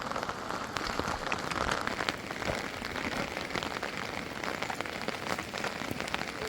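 Heavy rain falling steadily on a surface, a constant hiss dotted with many separate drop ticks.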